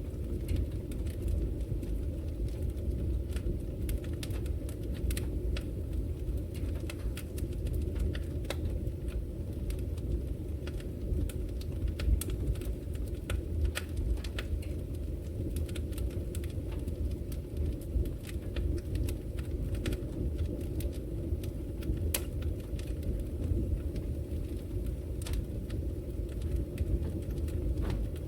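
Logs burning in a wood fireplace: a steady low rumble of flames with irregular sharp crackles and pops, a few of them louder.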